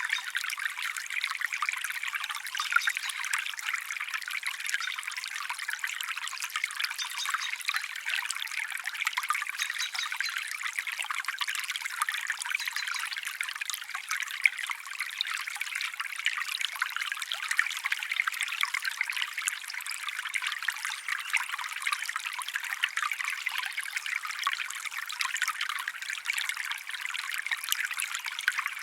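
Water trickling steadily, like a small stream or brook, with a fine, continuous babble and no deep rumble.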